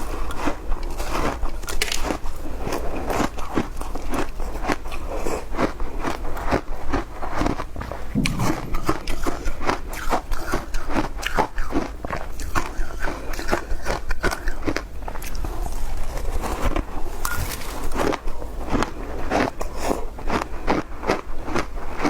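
Ice being bitten and chewed: a steady run of crisp crunches, two or three a second.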